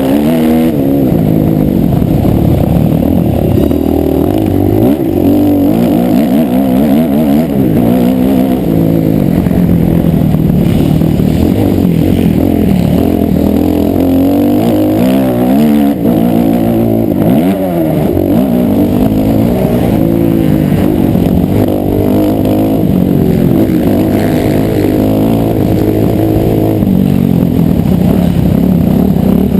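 Motocross motorcycle engine revving, its pitch climbing and dropping again and again as the throttle is opened and closed.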